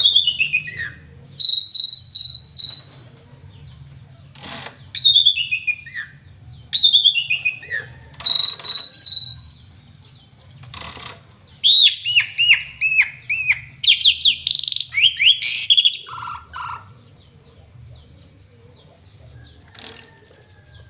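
Javan pied starling singing loudly in separate phrases of downward-sweeping whistles and held high notes, broken by short harsh notes. About twelve seconds in it breaks into a fast run of sweeping notes, and it goes much quieter after about seventeen seconds.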